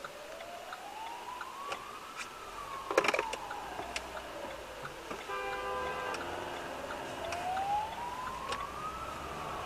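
Emergency vehicle siren on a slow wail, its pitch rising and falling about once every five to six seconds. A sharp knock comes about three seconds in, and a steady multi-note tone sounds for about a second just past the middle.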